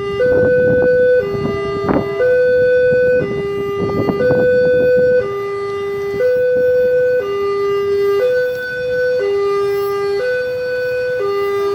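Electronic two-tone warning alarm sounding a steady high–low pattern, each note held about a second. Two short bursts of rushing noise with knocks come through it in the first five seconds.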